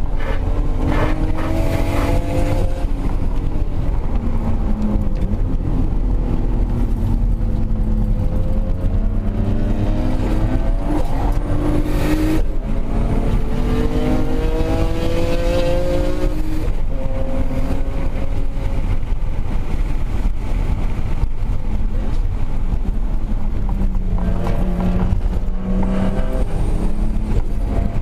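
Two performance car engines at speed, the onboard Toyota Supra and a Honda NSX just ahead, over a constant low rumble. Their notes climb for several seconds under acceleration and drop away several times, most clearly in the middle stretch and again near the end.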